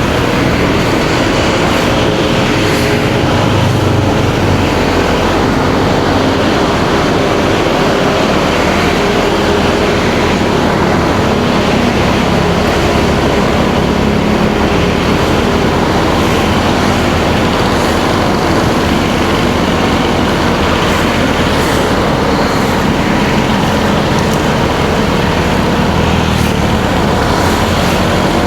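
A motorcycle engine running steadily while riding, mixed with a constant rush of wind and road noise and the sound of surrounding traffic.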